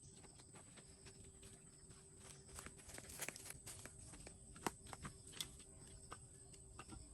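Faint, irregular clicks and taps, sharpest about four and a half seconds in, over a steady thin high-pitched tone.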